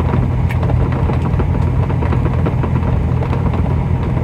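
Semi truck's diesel engine idling, a steady low hum. Faint light clicks of a spoon pressing sauce through a strainer sit above it.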